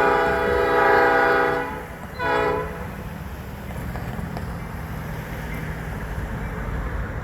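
Train horn sounding a long blast that ends about two seconds in, followed by a short blast, then the low rumble of the train rolling along.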